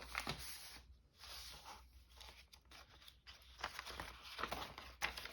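Paper sheets being handled and shifted, faint rustling with a few short taps.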